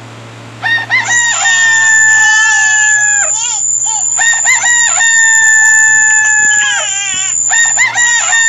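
Rooster crowing sound effect looping, three crows about three and a half seconds apart, each a long held call that drops in pitch at the end, over a steady high-pitched electronic tone.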